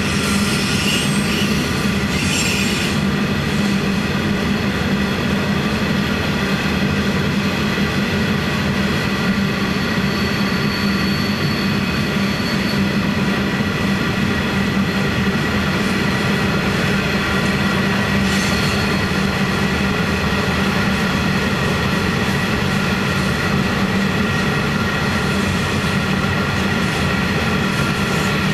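Heavy iron-ore wagons rolling steadily past close by, a low rumble under a continuous high-pitched squeal from the steel wheels.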